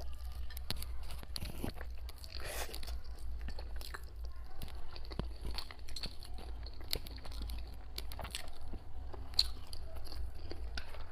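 Faint, scattered clicks and crunches of zongzi and their packaging being handled close to the microphone.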